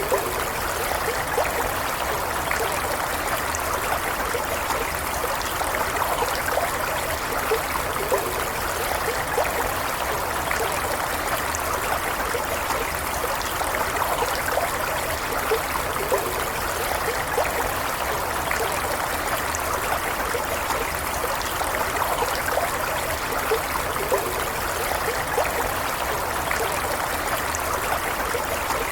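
A small stream flowing steadily, with a continuous babble and trickle of running water over stones.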